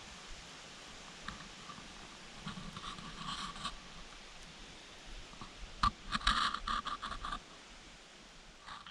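Two short spells of rustling and scraping, a brief one about three seconds in and a longer, denser one around six seconds in, over a faint steady hiss.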